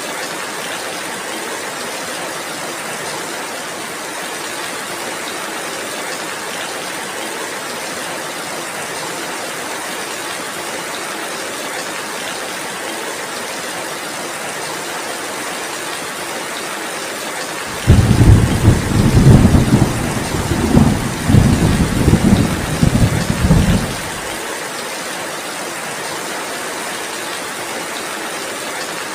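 Heavy rain falling steadily. Partway through, a roll of thunder rumbles loudly for about six seconds and then stops fairly suddenly.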